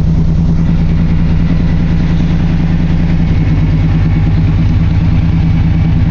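1995 Chevy Silverado 1500's engine idling steadily and loud through Flowmaster Super 10 mufflers, moments after a cold start.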